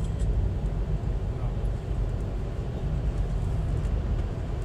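Steady low rumble of a moving VIA Rail passenger train, heard from on board, with a few faint ticks near the start.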